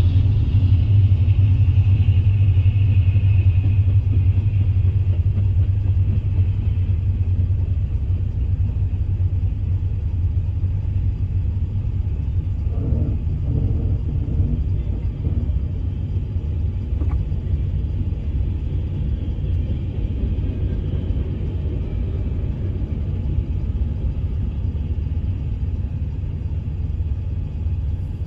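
Freight train rolling through a grade crossing, heard from inside a stopped car. The diesel locomotives' engines are loudest in the first few seconds, then give way to the steady rumble of freight cars passing.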